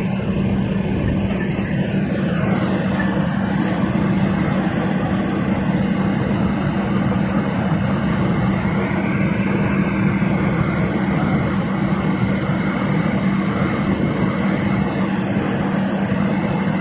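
Excavator's diesel engine running steadily under heavy load, a constant deep drone with no let-up, labouring as it blows ever-thicker exhaust smoke.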